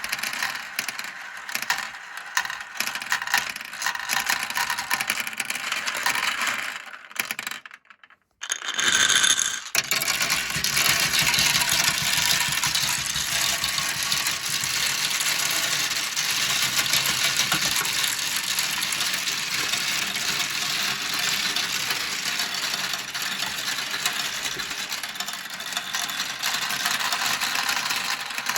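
Many glass marbles rolling and clattering down a plastic marble-run track: a dense, continuous rattle of small clicks. It drops out almost to silence for about a second around eight seconds in, then starts again with a brief ringing tone.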